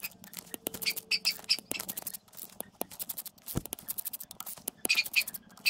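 Hand tools and metal engine parts clicking, clinking and scraping in an irregular run of short taps during an engine teardown.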